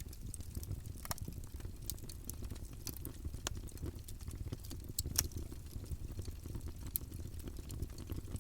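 Campfire burning steadily, a low rumble of flames with irregular sharp crackles and pops from the wood, the loudest pop about five seconds in.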